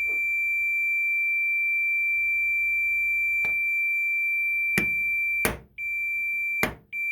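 Multimeter continuity beeper sounding a steady high tone through a furnace switch, with several sharp taps on the switch. Near the end the tone cuts out twice for a moment as a tap breaks continuity: a sign of a faulty switch, which the owner hopes is why the furnace cuts off.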